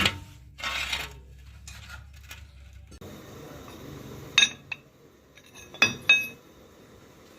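Metal parts being handled: a knock and a short scrape, then three sharp metal-on-metal clanks that ring briefly, one about halfway through and two close together about six seconds in. A low hum runs under the first few seconds.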